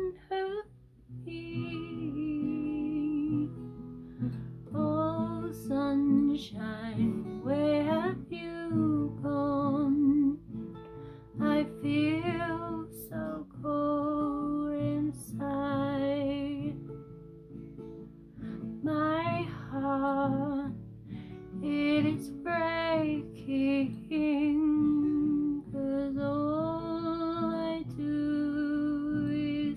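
A woman singing with acoustic guitar accompaniment, her voice in long held, bending notes.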